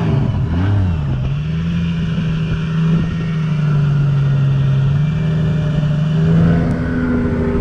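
A drift car's engine, close by, gives a quick rev blip about half a second in, then holds steady revs, rising slightly near the end.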